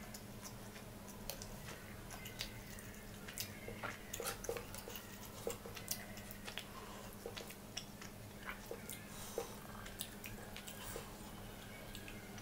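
Close-up eating sounds: chewing of Indian flatbread dipped in curry, with scattered wet mouth clicks, busiest in the middle, over a faint steady hum.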